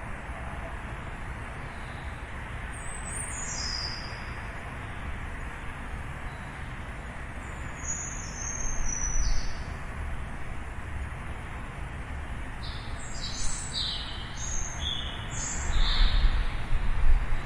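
Small birds chirping over a steady hum of distant city traffic. A falling call comes about three seconds in and another around eight seconds; near the end there is a quick run of chirps while a low vehicle rumble swells.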